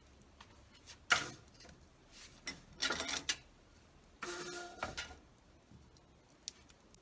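A few short clatters and knocks of objects being handled: a sharp knock about a second in, a run of rattling around three seconds, and another clatter with a faint ringing tone between four and five seconds.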